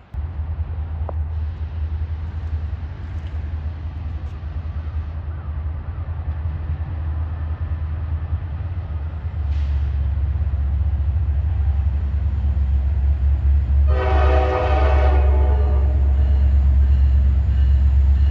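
Diesel freight locomotive passing close by. Its low engine rumble grows louder about halfway through, and it gives one short horn blast in the last third.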